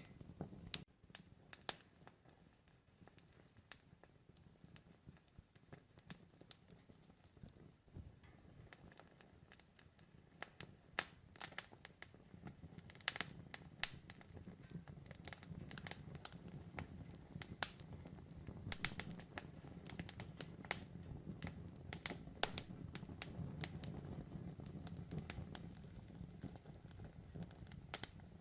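Wood campfire crackling: irregular sharp pops and snaps over a low, steady rumble of flames, the pops coming thicker in the second half.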